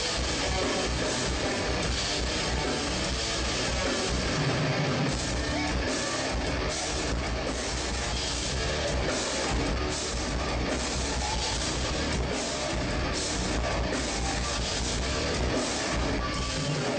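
Heavy metal band playing live with distorted electric guitars and a drum kit, a dense, steady wall of sound.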